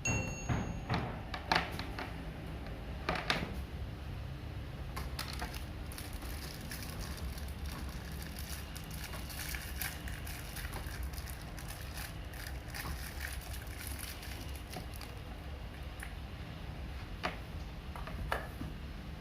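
Plastic clicks and crackling from handling parts of a Deerma DX700 stick vacuum cleaner, several sharper clicks in the first few seconds and lighter ones after, over a low steady hum.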